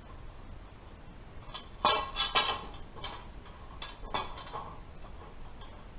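Steel conduit pipe being handled in a shop, clanking and ringing against metal: two loud clanks about two seconds in, another about four seconds in, and lighter taps between.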